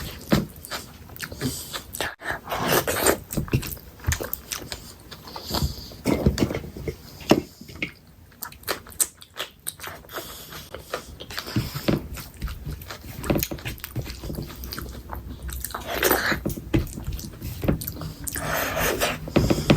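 Close-miked eating of chicken curry: irregular biting, wet chewing and the odd crunch, in a string of sharp mouth clicks and short smacking noises.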